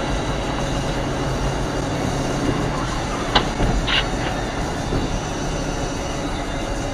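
Steady low rumble of road and engine noise inside a car's cabin, with two short sharp clicks about three and a half and four seconds in.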